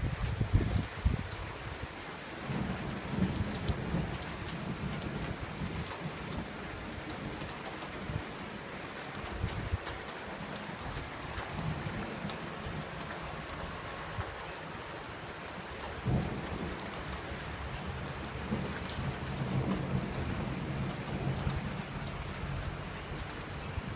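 Steady rain with thunder rumbling. A loud roll dies away in the first second, and fainter rumbles come back a few times later on.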